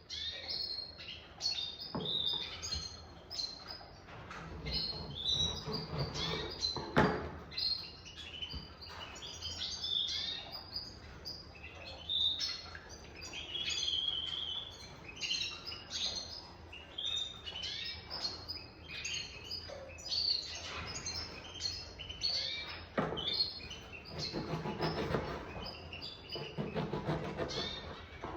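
A flock of small cage birds chirping and twittering continuously, many short high calls overlapping, with a few sharp knocks along the way.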